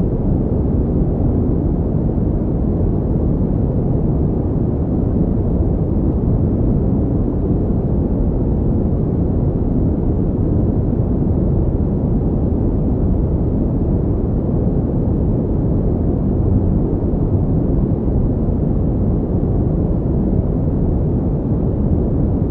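Steady synthetic pink noise: an even, deep hiss with most of its weight in the low end and little treble, unchanging throughout.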